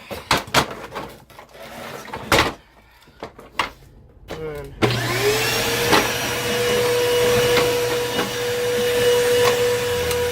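A few clicks and knocks, then about five seconds in the Bissell Powerforce bagless upright vacuum's motor switches on. Its whine rises quickly to a steady high tone over a steady hum and keeps running loudly.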